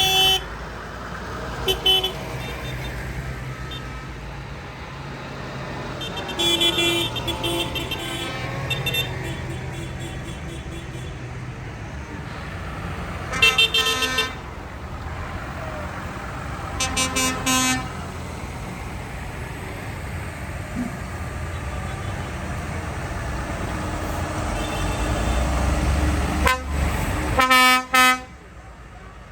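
Tractors driving past with their engines running, one rumbling louder as it comes close and then cutting away sharply near the end, while their horns give short toots several times.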